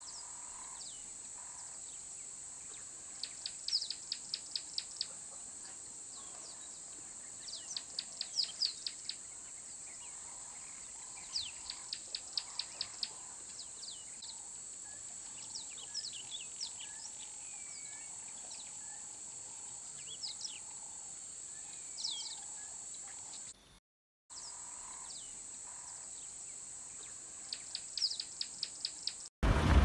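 A bird calling in rapid runs of high, downward-sliding chirps, each run lasting about a second and a half and coming back every few seconds, over a steady high hiss.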